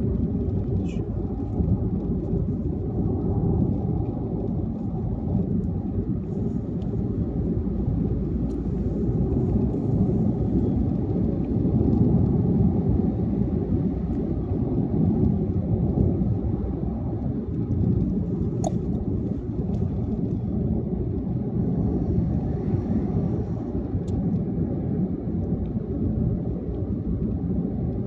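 Steady low rumble of a car cruising on a highway: road, tyre and engine noise, with a few faint clicks.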